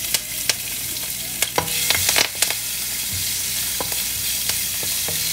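Chopped green chilies and curry leaves sizzling in hot oil in an aluminium kadai, a steady hiss, while a wooden spatula stirs them, with scattered sharp clicks and scrapes against the pan.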